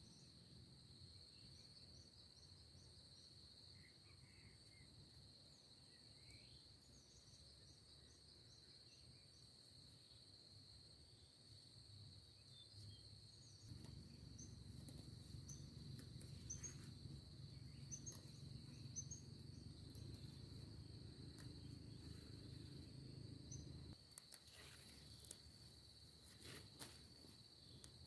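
Faint countryside ambience: insects droning steadily at a high pitch, with scattered short bird chirps. A low rumble rises about halfway through and stops suddenly some ten seconds later, followed by a few light clicks.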